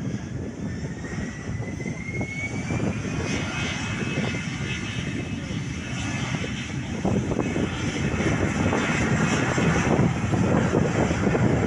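Airliner engines running, a thin whine rising in pitch over the first few seconds and then holding steady over a low rumble, the whole sound growing louder in the second half.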